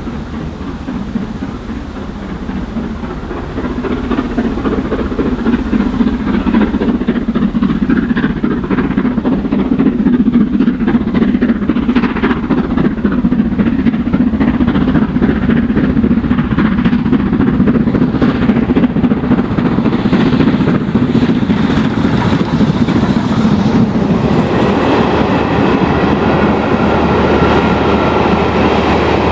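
A train hauled by a Black 5 steam locomotive, LMS 44871, rolling past, its coach wheels clattering over the rails. The sound grows louder about five seconds in and stays loud. A steady droning tone joins in near the end.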